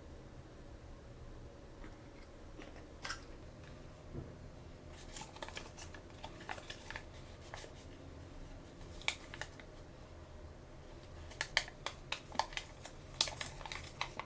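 Shopkins toy packaging being handled and opened by hand: scattered sharp snips, crinkles and clicks of plastic and foil. They come in small clusters and grow busiest near the end.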